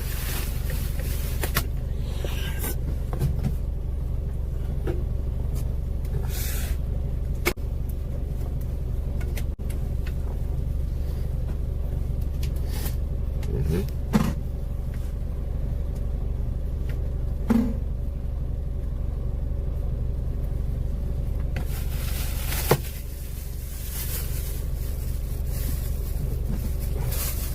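Steady low rumble of a moving train heard from inside the carriage, with a few brief knocks.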